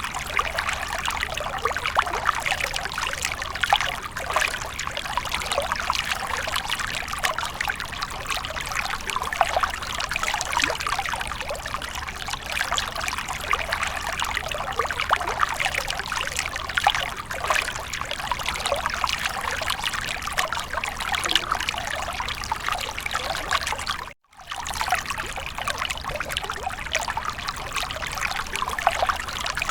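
Water fountain splashing and trickling steadily. The sound cuts out completely for a fraction of a second about three-quarters of the way through, then resumes.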